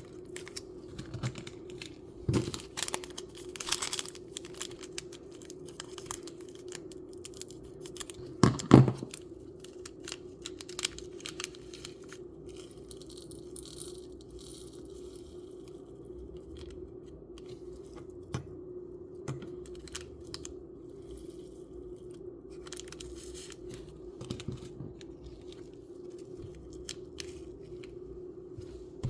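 A small packet of miniature bird food being cut and torn open and handled with small plastic parts: scattered clicks and crinkles, with one louder knock about nine seconds in. A steady low hum runs underneath.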